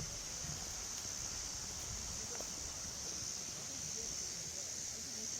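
Steady forest ambience dominated by a continuous high-pitched drone of insects in chorus, with faint low rustle underneath.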